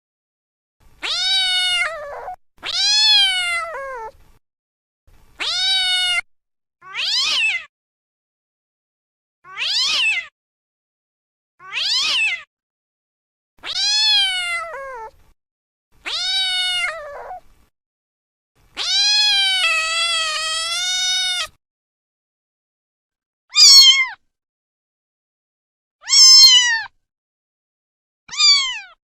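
Domestic cat meowing: about a dozen separate meows with pauses between them, each rising and then falling in pitch. One longer, wavering meow comes about two-thirds of the way through, and the last few are shorter and higher.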